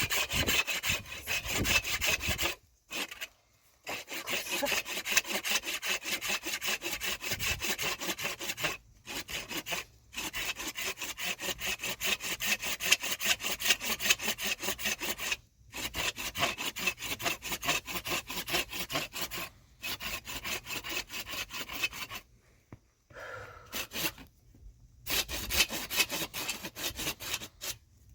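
Wood being cut with a hand saw in fast, even back-and-forth strokes. The sawing comes in several long bouts broken by short pauses.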